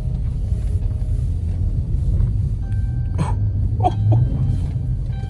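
Steady low rumble of a car driving, heard from inside the cabin, with a brief vocal sound a little after three seconds in.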